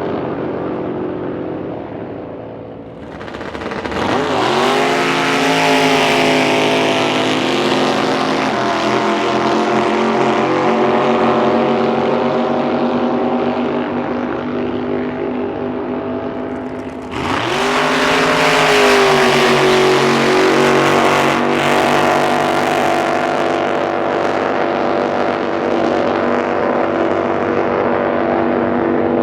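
Racing drag boat engines at high power. About 3 seconds in the pitch sweeps sharply up as a boat comes on full throttle, then holds at high revs. A second sudden surge of throttle comes about 17 seconds in and runs on loud to the end.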